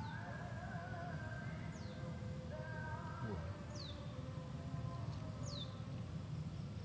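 A bird repeating a short, high whistle that slides downward, four times about two seconds apart, over a steady low background rumble.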